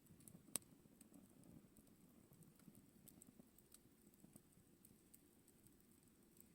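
Campfire crackling faintly: irregular small pops and ticks over a soft low rush of flame, with one sharp, louder pop about half a second in.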